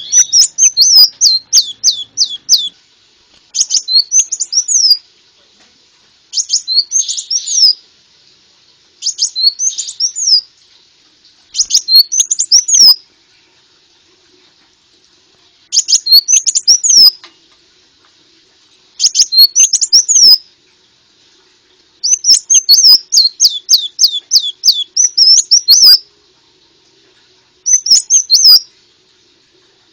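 Konin bird singing: repeated short phrases of rapid, high chirps, each about a second long, separated by brief pauses. A lure recording of the full song.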